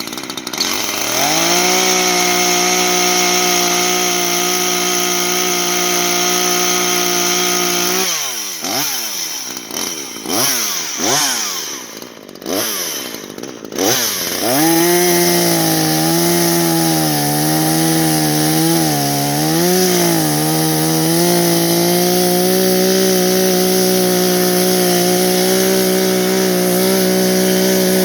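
Gas chainsaw engine running at a steady speed. About eight seconds in it falters for several seconds, its pitch dipping and swinging up and down again and again, then it picks back up and runs steadily again, wavering for a few seconds before settling.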